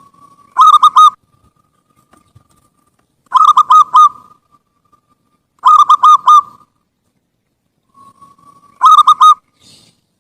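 Zebra dove (perkutut) singing: four phrases of quick staccato coos, about one every two and a half to three seconds. Each phrase starts with a faint drawn-out note.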